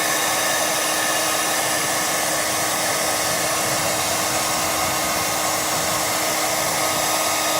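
Handheld hair dryer running steadily with a constant hum, blowing hot air into an iced-up refrigerator icemaker to thaw it.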